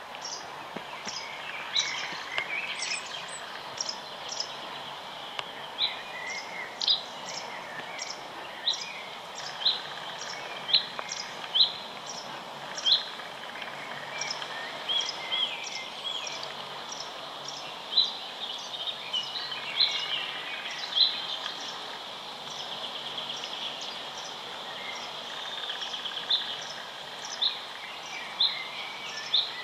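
Birds calling at a pond: one bird repeats short, sharp rising chirps about once a second over steady background noise, with fainter warbling song from other birds.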